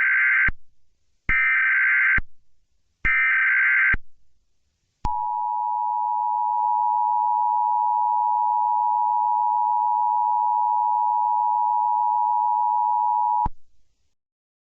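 Emergency Alert System tones: three short bursts of the SAME digital header, a warbling data screech about 1.7 seconds apart, then the steady two-tone EAS attention signal held for about eight and a half seconds before it cuts off. The tones open a civil danger warning.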